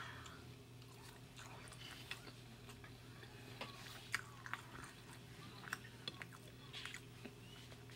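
Faint closed-mouth chewing of a mouthful of carne asada fries, with scattered soft mouth clicks over a steady low hum.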